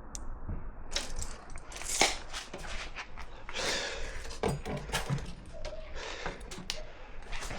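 A run of irregular knocks, clicks and scrapes, close together and uneven, as of tools or materials being handled.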